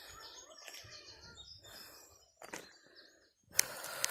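Birds chirping faintly in woodland, with a few sharp knocks or rustles, the loudest near the end.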